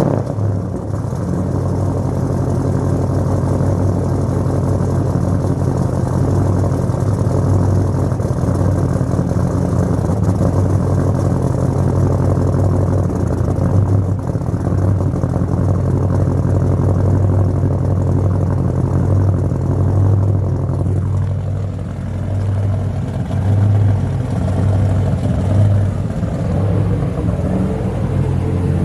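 Turbocharged LS V8 in a Nissan 300ZX idling cold just after starting, running steadily at first and more unevenly about three quarters of the way through; cold and, in the owner's words, not happy.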